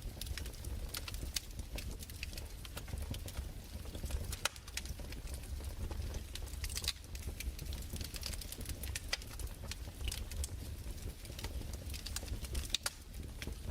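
Crackling fireplace: irregular pops and snaps of varying loudness over a steady low rumble.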